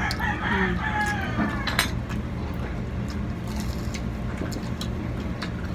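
A few light clicks and clinks of dishes and cutlery over a steady low hum, with faint voices in the first two seconds.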